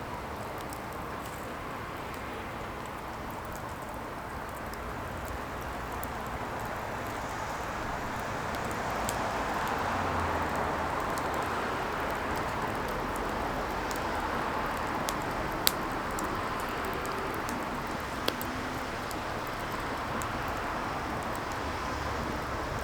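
Firewood burning with a steady rushing hiss that swells partway through, scattered faint crackles, and two sharper pops in the second half.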